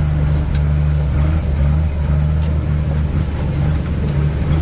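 Truck engine running with a steady low hum, a few faint clicks over it.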